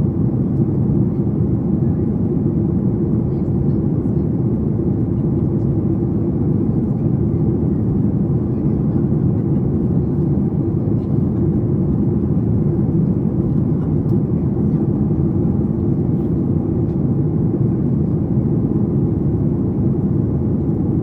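Steady cabin noise inside a Boeing 737 MAX 8 in flight on descent: an even, low rumble of airflow and its CFM LEAP-1B engines.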